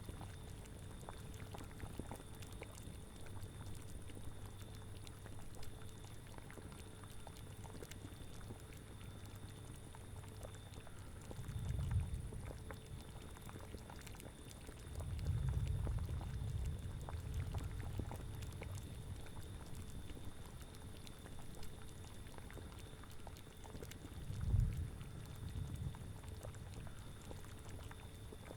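A boiling cauldron bubbling and popping steadily. Three low rumbling swells rise under it, one brief, one lasting a few seconds and one near the end, most likely gusts of wind.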